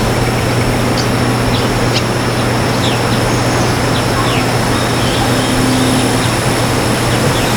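Wild birds giving short, downward-sweeping chirps several times over a loud, steady rushing noise with a constant low hum.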